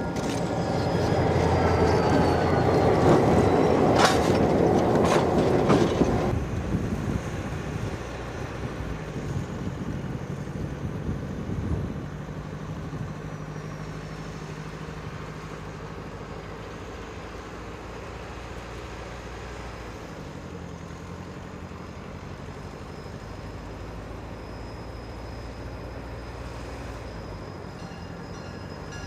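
Freight train passing: the diesel locomotives go by loudly in the first few seconds, their tones falling in pitch, with a few sharp clanks. Then the cars roll by with a steady rumble and wheel clatter on the rails.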